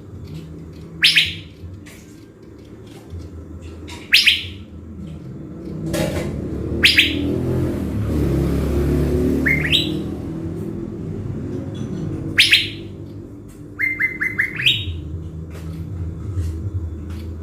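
Caged thanh lam decoy bird calling: loud, short, sharp whistled notes about every three seconds, one of them a quick run of several notes near the end. A low rumble swells and fades through the middle.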